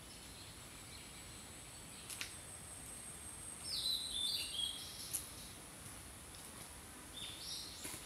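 Wild songbird singing in woodland: a short, stepped, falling phrase about halfway through and a shorter one near the end, with two sharp chips before and between, over a steady high-pitched hiss.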